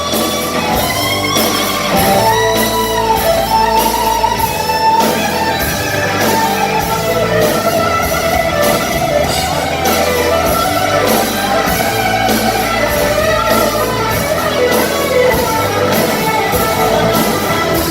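Live rock band playing loudly, led by an electric guitar whose notes bend and slide, over drums keeping a steady beat.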